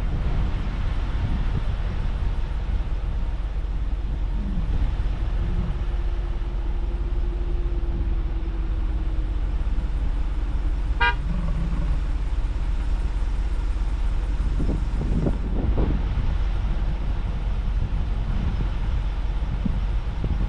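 A car driving along a road, its tyre and engine noise a steady low rumble. A faint drawn-out tone sounds a few seconds in, and a brief high chirp comes about halfway through.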